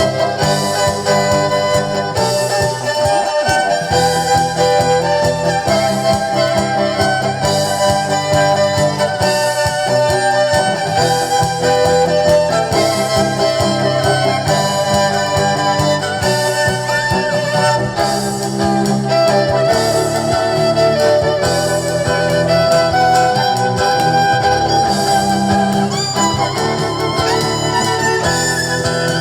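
A live band playing, with a violin carrying the melody over a steady accompaniment.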